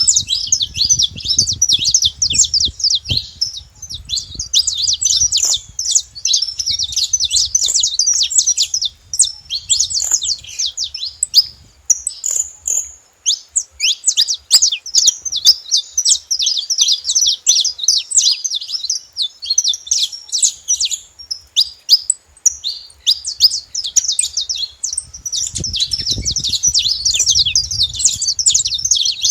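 Saffron finches singing: a dense run of quick, high chirps and trills, with a couple of short lulls. A low rumble sits under the song at the start and again near the end.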